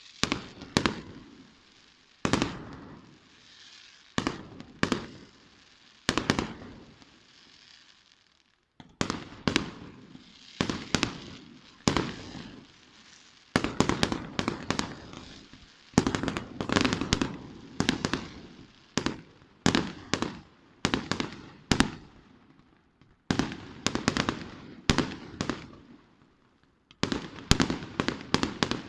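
Fireworks display: bursts going off one after another, each sharp bang trailing off in a rolling echo. A crackling hiss runs under the bangs a few seconds in, and the bursts come thickest in the middle.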